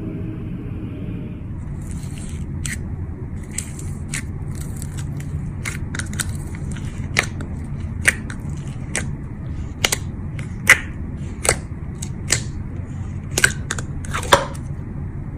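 Slime being handled, giving irregular sharp sticky clicks and crackles that start about two seconds in and come more often and more sharply in the second half, over a steady low hum.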